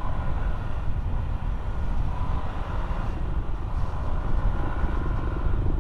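Riding noise from a Honda Click 125i scooter: steady low wind rumble buffeting a helmet-mounted mic over the running engine.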